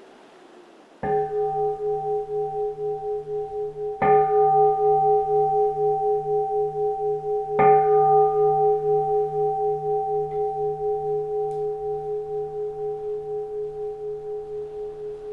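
Keisu, a Japanese Zen temple bowl bell, struck three times, about three seconds apart. Each strike rings on in a long, slowly pulsing hum that gradually fades. A soft wind hush is heard before the first strike.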